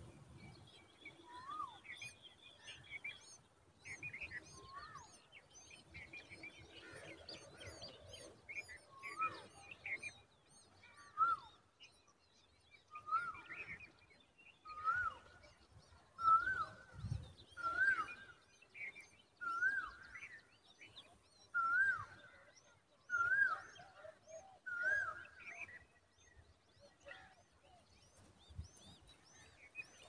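Birds calling: a short rising-then-falling note repeated about once a second through the middle stretch, over thin, high chirps throughout.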